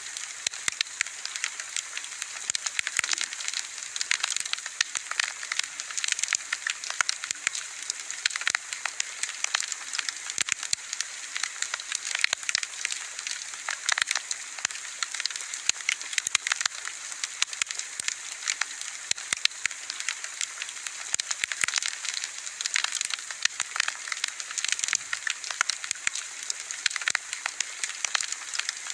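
Wood bonfire burning, with dense, irregular crackles and pops over a steady hiss.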